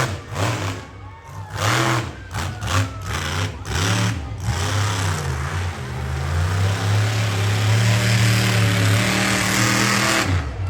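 Monster truck engine revving in short, uneven blips, then held at high revs for several seconds before easing off near the end.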